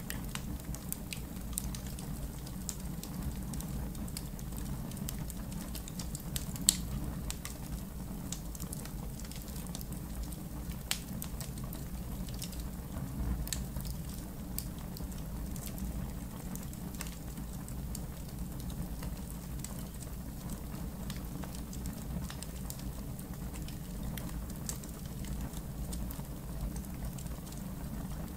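Wood fire in a fire pit crackling: scattered sharp pops and snaps over a steady low rumble, with one louder pop about seven seconds in.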